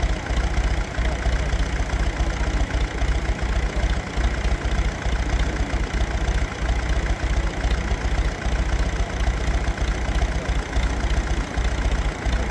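A motor engine running steadily at idle, with a low, pulsing rumble.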